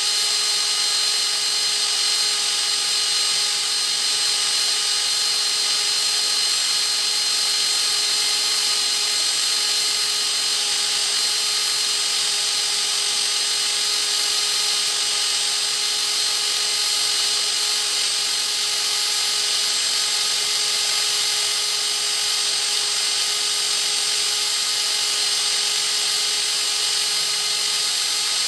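A power tool running steadily at constant speed, a high whine over a strong hiss, with no change in pitch or load.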